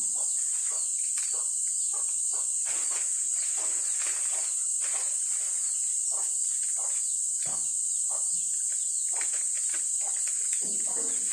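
A steady, high-pitched chorus of insects, a constant shrill hiss that does not change, with faint irregular rustles and knocks beneath it.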